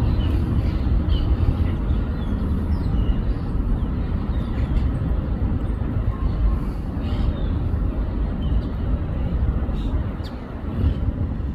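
Rain falling, under a steady loud low rumble, with a few faint short chirps.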